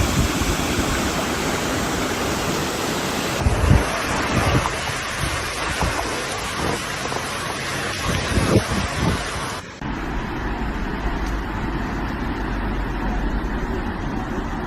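Steady rushing noise of floodwater, with gusts of wind buffeting the microphone in low rumbles near the start and twice more later. The sound changes abruptly twice, as separate recordings are cut together.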